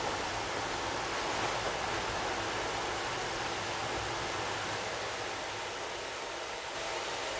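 Steady rushing noise heard aboard an air-conditioned train coach, even and without any rhythm, dipping slightly in level a little before the end.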